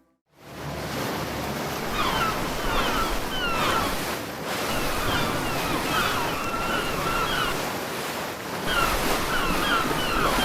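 Sea waves washing steadily, with short, squeaky gliding calls repeating over them. The sound starts from silence about half a second in.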